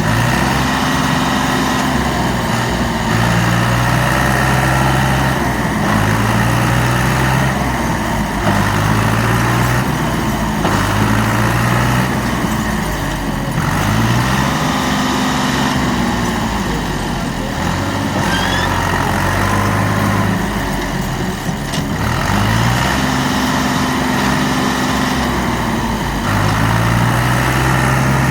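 Diesel tractor engine revving up and down again and again, each rev rising, holding for a moment, then dropping back, as the tractor works under load to unload its hydraulic trolley and pull it free of the mud.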